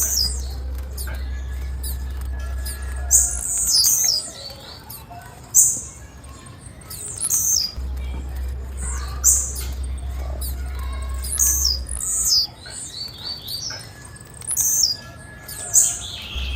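Female blue-black grassquit (tiziu) calling: short, high chirps repeated at irregular intervals. A steady low hum cuts out and back in twice underneath.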